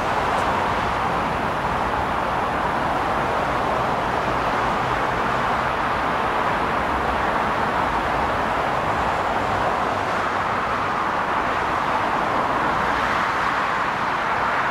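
Freight train of covered hopper cars rolling past at steady speed: a continuous, even rolling noise of wheels on rail.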